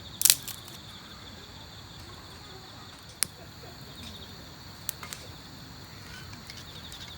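Crickets chirping steadily in a continuous pulsing trill, with a few sharp clicks over it: a short loud cluster just after the start, then single clicks around three and five seconds in.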